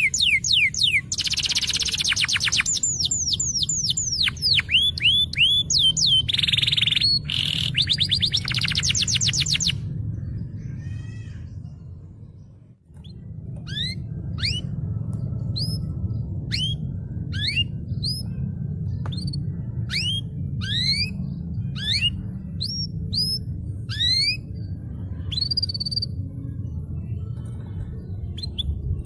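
Domestic canary singing: about ten seconds of rapid trills and fast falling sweeps, then, after a brief fade, a string of separate quick rising chirps. A steady low hum runs underneath.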